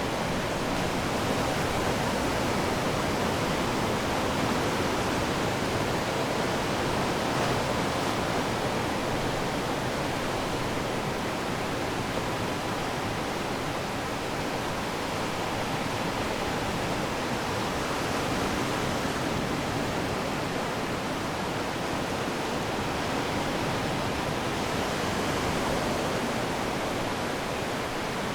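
Ocean waves washing on the shore: a steady rush of surf that swells slightly now and then.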